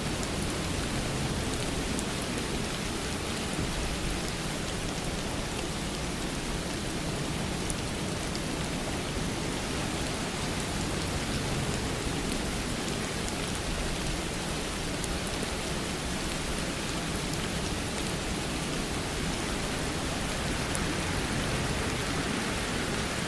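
Steady rain falling, a continuous even hiss with a few faint drop ticks scattered through it.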